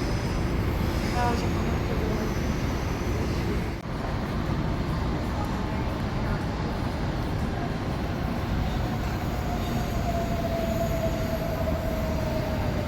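A CPTM Line 11-Coral electric commuter train running past on the track, with a steady rumble of wheels on rail. A whine slowly falls in pitch over the last few seconds.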